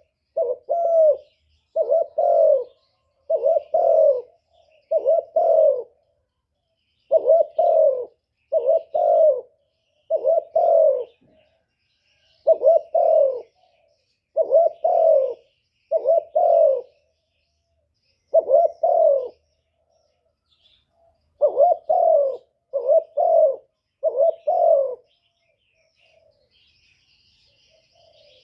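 A spotted dove cooing: repeated low, rounded coo notes in groups of two or three, then stopping about 25 seconds in. Faint high chirps of small birds sound behind it.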